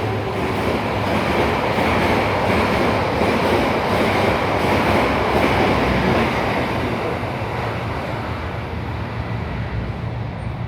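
Passenger train running through a station at speed: a loud, continuous rush of wheels on rail and rolling carriages that slowly fades over the last few seconds as the train draws away.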